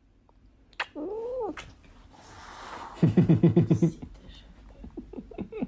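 A cat meows once about a second in, a short call that rises and falls. About three seconds in comes a louder stuttering call, rapidly pulsing, that lasts about a second.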